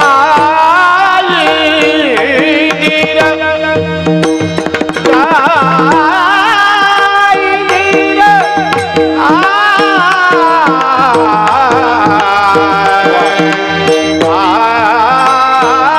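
Devotional kirtan singing: a man's voice holds long, heavily ornamented notes that waver and glide, over a steady drone and running hand-drum strokes.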